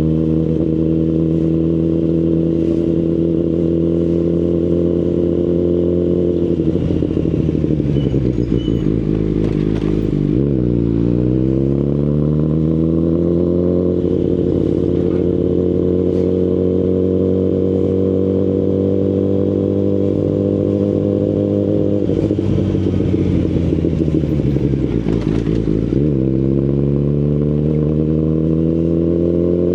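2019 Kawasaki Ninja ZX-10RR's inline-four engine through an Akrapovic Evolution Line full exhaust, under way. The engine note holds steady, drops as the throttle is rolled off to a low point about ten seconds in, then climbs back up and holds. It falls off again for a few seconds about two-thirds of the way through and is picking up once more near the end.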